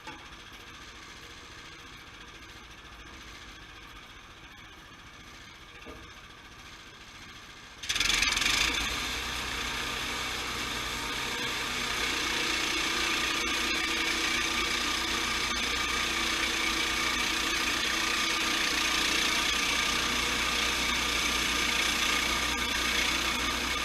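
Sawmill running at a low steady level; about eight seconds in it jumps suddenly to a much louder steady sawing noise as the blade works through the log.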